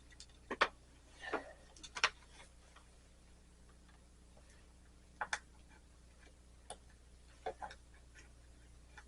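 A few sharp, scattered clicks and taps of small hand cutters being picked up and snipping a strip of hobby came.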